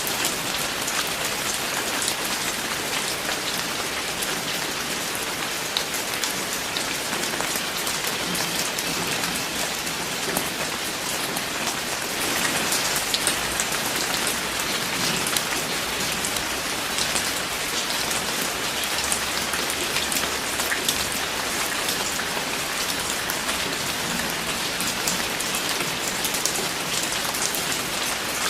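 Steady rain, with many small drops ticking on a surface.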